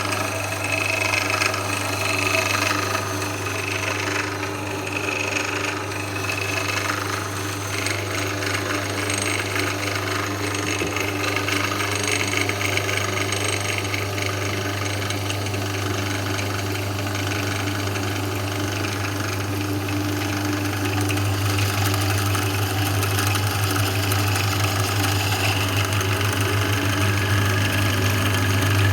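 Electric motor of an Einhell TE-BD 750 E 750-watt drill press running steadily with a strong low hum, getting a little louder about two-thirds of the way in.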